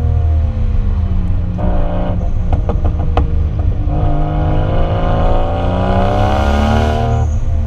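A 1JZ inline-six in a Lexus IS300, running through a Vibrant exhaust, is driven hard. The engine pitch falls over the first two seconds and a run of sharp clicks comes around the middle. The pitch then climbs steadily for about three seconds and drops suddenly near the end.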